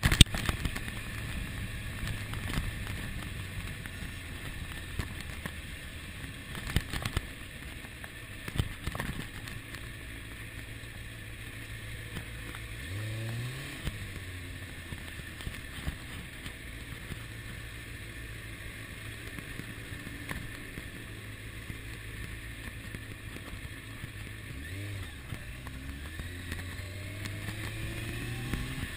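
Kawasaki ZX-6R inline-four engine running at a steady riding speed, with wind and road noise. It rises in pitch briefly about 13 seconds in and again toward the end as the bike accelerates, with a few short knocks near the start.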